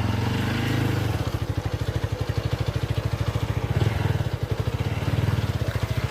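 Motorcycle engine running at low speed with a steady, rapid putter of firing pulses, its loudness wavering a little as it works along a rutted dirt track.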